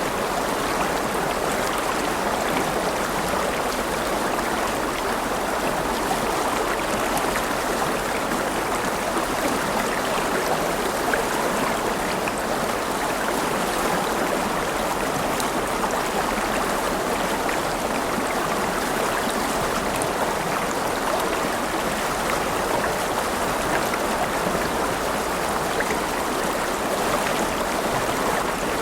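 River water flowing and rushing over stones, a steady even rush.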